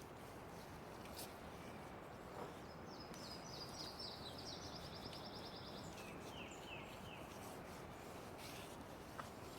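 Quiet outdoor ambience with a steady hiss. A bird sings a rapid high trill a few seconds in, then a few lower falling notes.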